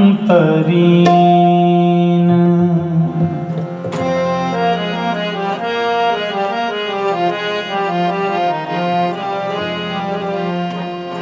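Sikh kirtan: a singer draws out the word "kamtarin" over harmonium and tabla. From about four seconds the harmonium plays a stepping melodic interlude with the tabla keeping time.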